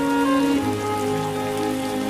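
Steady rain falling, mixed with a slow instrumental hymn of the Congregação Cristã no Brasil in long held chords that change once.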